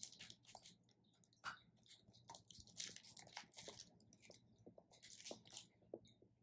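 Faint biting and chewing of a piece of dark chocolate with caramel, with irregular soft crackles from its clear plastic wrapper.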